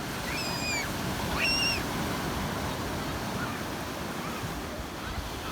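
Sea waves washing on the shore as a steady rush. A bird gives two short, high calls in the first two seconds.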